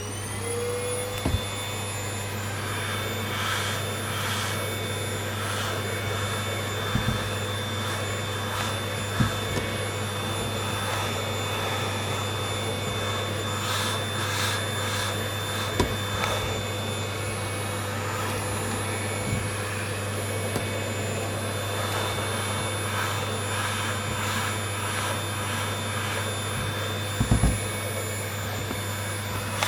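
Vacuum cleaner running steadily with a high whine, its nozzle being run over a rabbit's fur, with a few short knocks along the way.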